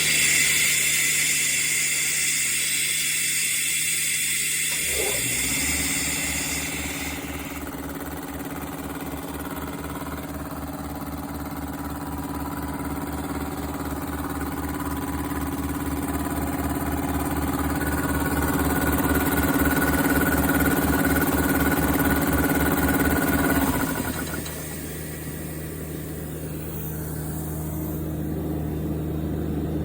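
Iwata SP-37P three-phase 200 V air compressor. A hiss of air runs for the first several seconds; about five seconds in the pump starts and runs with a rhythmic pulsing, getting louder as it goes. It cuts off suddenly about twenty-four seconds in, leaving a steady hum.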